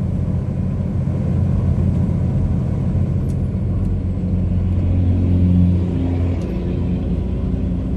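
Steady drone of a tractor-trailer's diesel engine and road noise, heard from inside the moving cab; the engine note swells slightly just past the middle, then eases.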